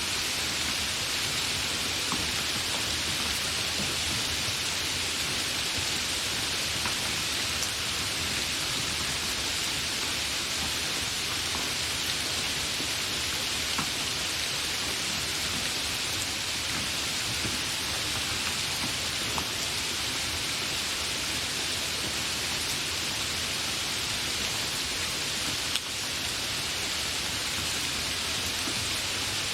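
Steady, continuous rain: an even hiss with faint scattered drop ticks. A single click with a brief dip in level comes near the end.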